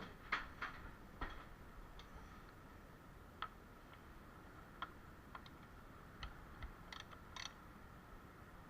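Scattered light clicks and taps at irregular intervals, several in the first second and a few more near the end, over a faint steady background.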